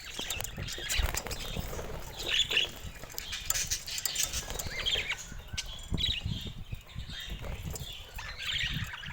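Pet budgerigars chirping in short bursts every second or so, over wing flapping and rustling.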